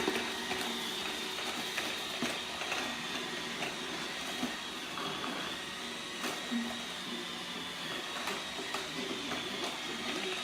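iRobot Roomba 690 robot vacuum running, a steady whir with a constant high whine, and a few small clicks and knocks now and then.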